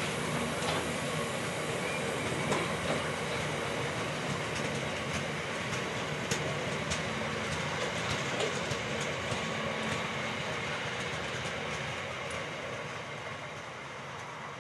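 Train running past on the rails: a steady rumble of wheels with scattered sharp clicks, slowly fading over the last few seconds as it draws away.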